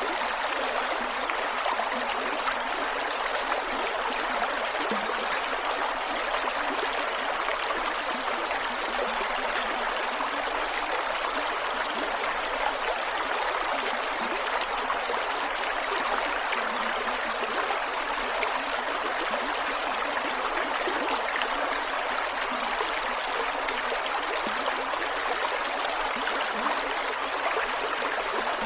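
Creek water flowing steadily over rocks, with continuous trickling and gurgling.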